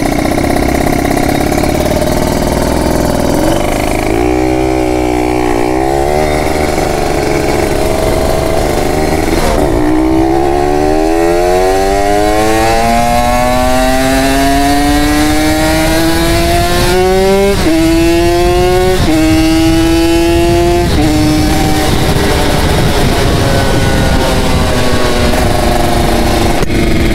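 Kawasaki Ninja RR 150 two-stroke single-cylinder engine pulling away. It revs in short blips, then climbs steadily in pitch through a long pull and shifts up three times in quick succession, each shift a sudden drop in pitch, before settling to a steady cruise. The owner says the engine has gone weak and needs new piston rings.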